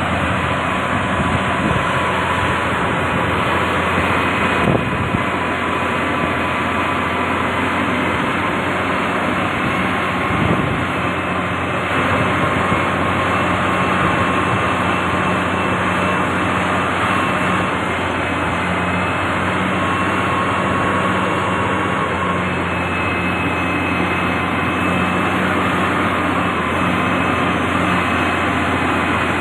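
Heavy road-construction machinery running steadily: a constant engine drone with a low hum and a few faint, steady whining tones.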